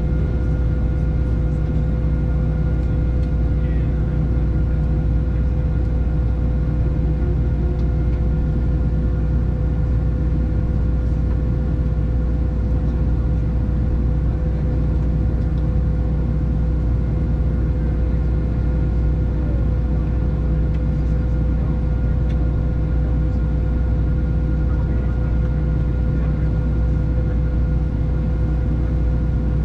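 Steady cabin drone of a Boeing 737-700 heard from inside the cabin: CFM56-7B engines and air systems running, a low rumble with steady whine tones over it and no change in pitch or level.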